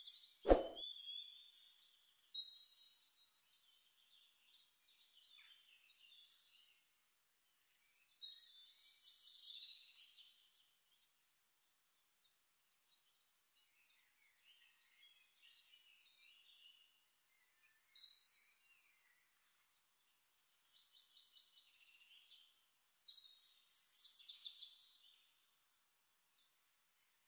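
Birds chirping and trilling in short, high-pitched spells separated by quieter gaps, with one sharp click about half a second in.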